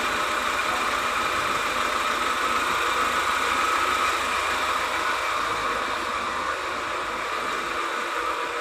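Volvo V40 D4 diesel engine running steadily at idle on a newly fitted cambelt and making a lot of noise, which the mechanic takes as a sign that the valves are hitting the pistons or are broken.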